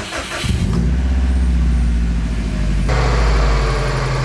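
2006 Subaru WRX's turbocharged flat-four engine starting on the starter, catching about half a second in and then running at a steady idle after a new crankshaft position sensor was fitted. It is heard first from inside the cabin, then from the open engine bay about three seconds in.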